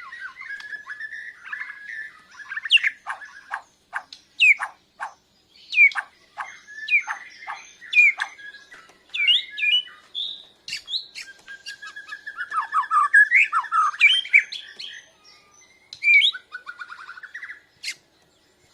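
A Bornean murai batu (white-rumped shama) singing a varied song of loud whistled notes, sharp chips and quick rattling trills, broken by short pauses between phrases.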